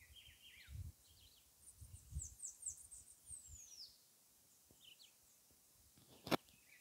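Faint wild birdsong: several birds chirping, one giving a quick run of about five high falling notes and then a long downward whistle. Soft low rumbles underneath and a single sharp click near the end.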